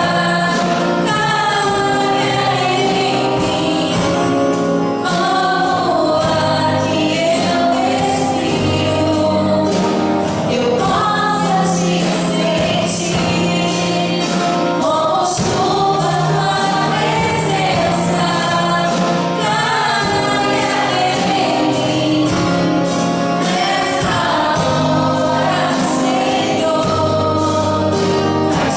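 Worship band playing a gospel song, with a choir of voices singing the melody over bass and a steady beat.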